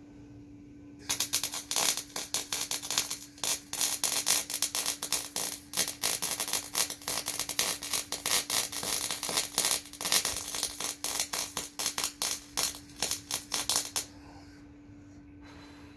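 Electric welding arc crackling in a dense, irregular stream of rapid ticks as a bead is laid. It starts about a second in and cuts off a couple of seconds before the end, over a steady electrical hum.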